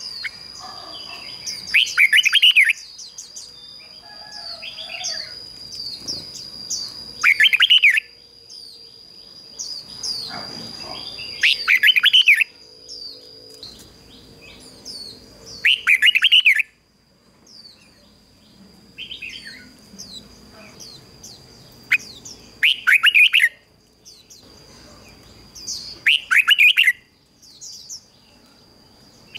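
Red-whiskered bulbul singing loud, short warbling phrases, about seven of them a few seconds apart: a lure bird calling to wild bulbuls. A steady high thin whine with small chirps runs beneath, fading about halfway through.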